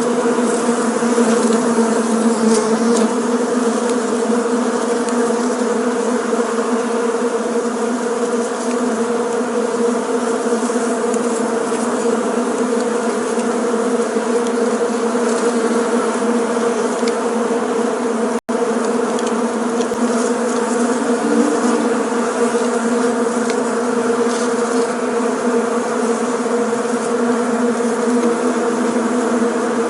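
Bees buzzing in a steady, continuous drone with a strong hum and overtones, cutting out for an instant about eighteen seconds in.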